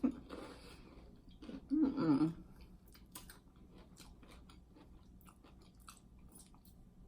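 Close-miked chewing and biting of seafood buffalo dip, with small crunches and wet mouth clicks. About two seconds in there is a brief louder vocal sound.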